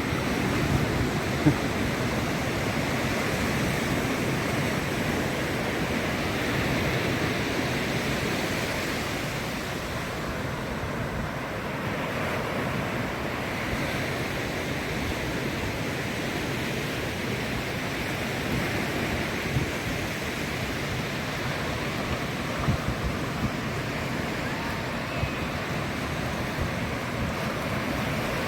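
Ocean surf breaking and washing up the beach in a steady wash of noise, with wind buffeting the microphone now and then.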